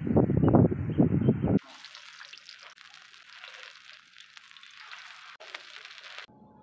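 A loud, low, muffled sound cuts off about a second and a half in. It gives way to a steady sizzle and crackle of chapli kababs frying in shallow oil on a flat iron tawa, which stops shortly before the end.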